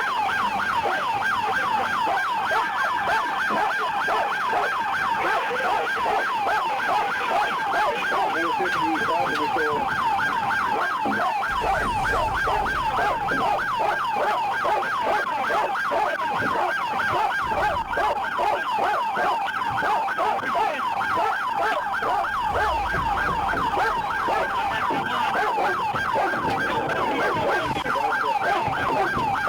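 Police car siren sounding continuously in a fast yelp, its pitch sweeping rapidly up and down many times a second.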